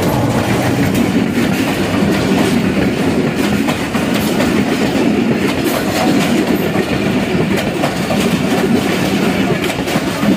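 Passenger coaches of an arriving express train rolling past along the platform: a steady, loud rumble of wheels on rail with scattered clicks as the wheels cross rail joints.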